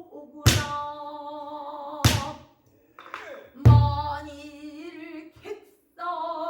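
Pansori singing: a woman's voice holding long, wavering notes, accompanied by a buk barrel drum. The drum strikes sharply three times, about a second and a half apart, the third with a deep boom.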